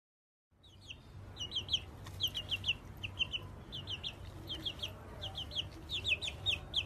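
Rapid, high-pitched peeps in clusters of two or three, a few clusters a second, over a low steady hum, starting about half a second in.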